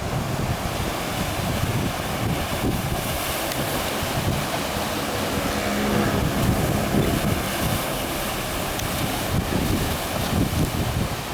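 Sea surf washing in on a breakwater of concrete tetrapods, with wind buffeting the microphone in gusts.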